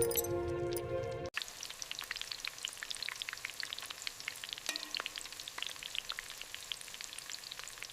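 Hot oil crackling and sizzling as food fries in a small pan, a dense patter of sharp pops. A short bit of music plays first and cuts off abruptly about a second in, just before the frying is heard.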